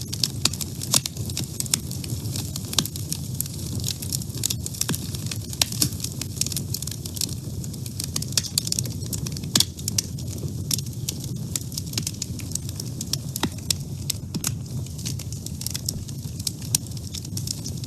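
Wood fire burning in a woodstove: a steady low rumble of flames with frequent sharp, irregular crackles and pops from the burning logs.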